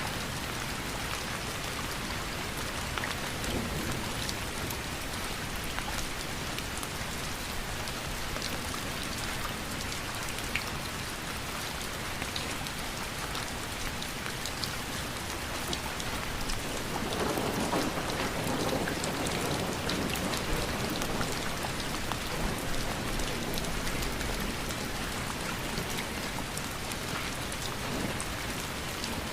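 Steady rain falling, with individual drops ticking on a surface. The rain swells louder for a few seconds a little past the middle, then settles back.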